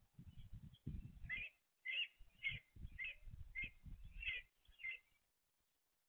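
A small bird chirping a quick series of short, high cheeps, about two a second, which stop near the end. Under them are low knocks and rustling from a bird moving on the feeder.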